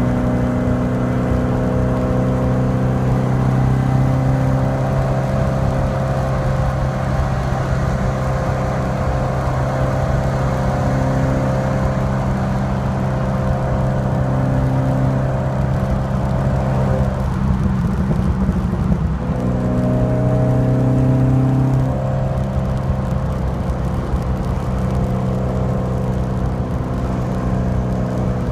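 Alfa Romeo Alfasud Sprint QV's 1.5-litre flat-four boxer engine running at a steady speed through its stainless steel exhaust. About two-thirds of the way through the steady note breaks up briefly, then settles back to the same pitch.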